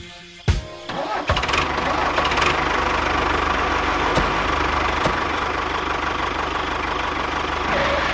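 Tractor engine sound starting up about a second in, after a single click, then running steadily at an even pace.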